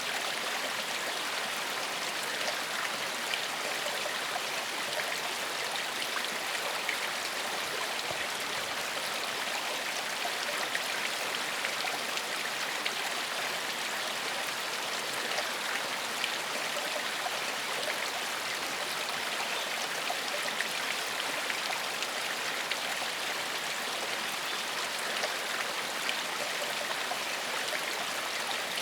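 Small forest stream flowing steadily over stones, a constant splashing and babbling rush.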